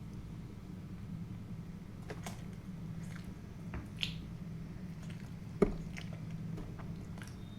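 Close-miked chewing of soft food, with a few sharp wet mouth clicks, the loudest about two, four and five and a half seconds in, over a steady low hum.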